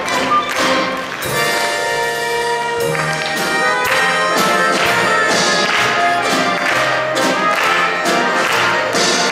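Orchestra with brass playing a lively instrumental passage, marked by repeated sharp percussive beats.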